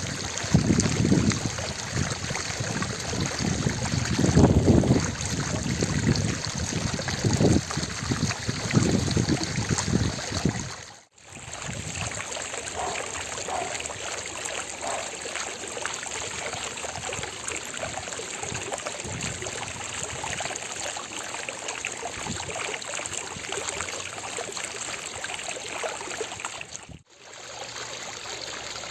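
Fountain water splashing and falling in a steady rush, with low rumbling surges during the first ten seconds or so. The sound cuts out briefly twice, about eleven seconds in and near the end.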